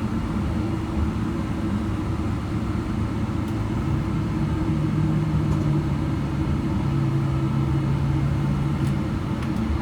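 Cabin noise of a Boeing 777-300ER taxiing, heard from a window seat: a steady low rumble of the GE90 engines at idle and the airframe rolling. A steady low hum joins about halfway through and fades shortly before the end.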